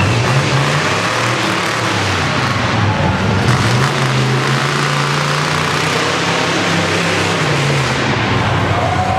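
Off-road competition truck's engine running hard on the course, its pitch stepping up and down with the throttle over a loud, continuous noise.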